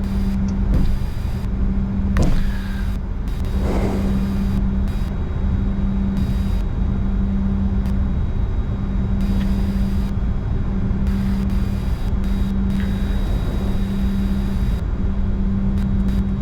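Cockpit noise of a Bombardier Challenger 605 taxiing: a steady low hum and rumble from the idling jet engines and the airframe rolling over the taxiway, with a brief click about two seconds in.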